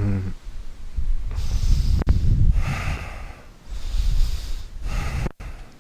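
A person breathing deeply and audibly, mostly through the nose: several long inhales and exhales, each about a second, with a low rumble underneath.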